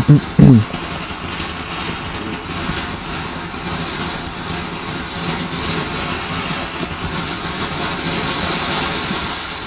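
Garden fountain firework spraying sparks with a steady hiss, fading away near the end.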